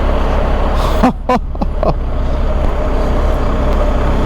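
BMW R1250 GS Adventure's boxer-twin engine running while riding, under steady wind rush on the helmet microphone. About a second in, the wind hiss briefly drops and a few short pitched sounds come through before the steady rush returns.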